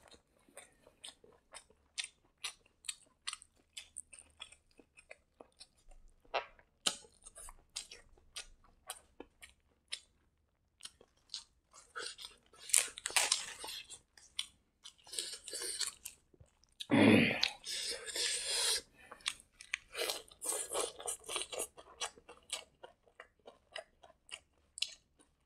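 Close-miked chewing and lip smacking from eating rice by hand, made up of many short wet clicks. Several louder crunchy stretches come partway through as fresh mustard leaves are bitten.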